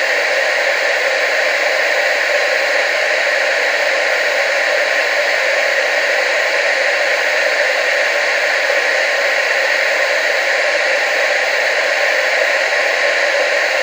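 Steady, unchanging TV static hiss, strongest in the upper middle range with almost no bass.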